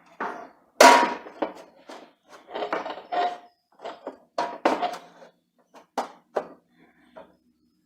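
Knocks and scrapes of an electric grill's cover being handled and fitted into place, a string of irregular clatters with the loudest about a second in.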